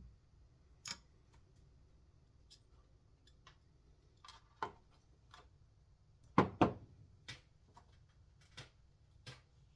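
Small metal and plastic parts of a chainsaw recoil starter being handled and fitted by hand: scattered light clicks and taps, with two louder knocks in quick succession about six and a half seconds in.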